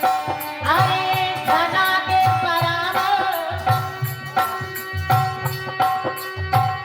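Instrumental passage of a Hindi folk song: a hand drum keeps a steady rhythm under long held notes, and a melody slides and bends from about a second in until past three seconds.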